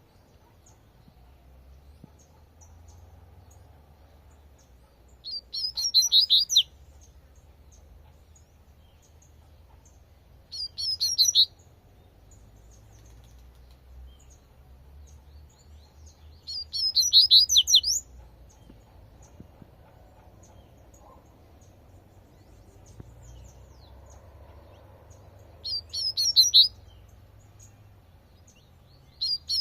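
Double-collared seedeater (coleirinho) singing its 'tui-tui' song: five short, high, quick phrases, each about a second long, several seconds apart.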